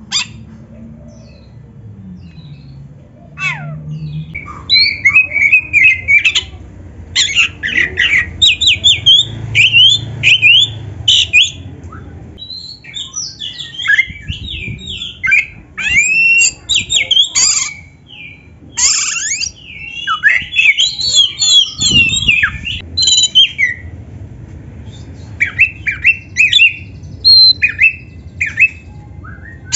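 Oriental magpie-robin (kacer) singing a loud, rapid, varied song of quick whistled slurs, chirps and harsh scratchy notes. It starts about three seconds in and pauses briefly now and then.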